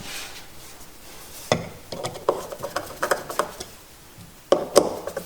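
Hands handling hard parts and tools: scattered small clicks and clinks of metal and plastic, with a few sharper clicks near the end.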